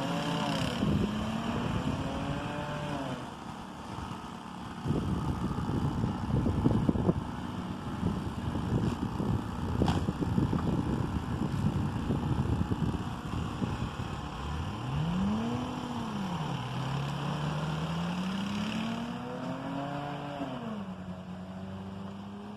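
Car engine revving up and down as the car struggles for grip in deep snow. In the middle stretch a loud, rough crackling of tyres churning through the snow takes over, then the engine revs rise and fall again and settle to a steady pitch near the end.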